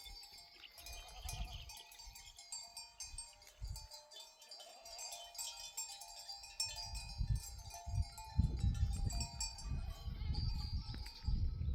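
Flock of sheep bleating, with many small bells on the herd tinkling throughout. A low rumble grows louder from about eight seconds in.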